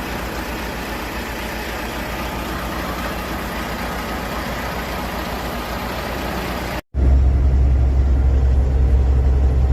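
Semi-truck engine running, with steady road noise. About seven seconds in, the sound cuts and comes back as a louder, deeper engine drone.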